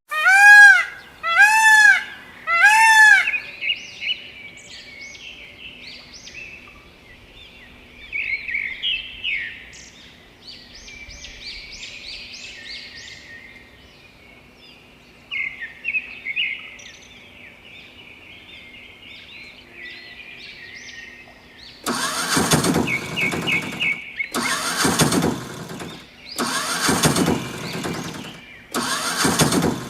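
Birds chirping, opened by three loud arched calls, then about 22 seconds in four loud bursts of rushing noise, each about a second and a half long.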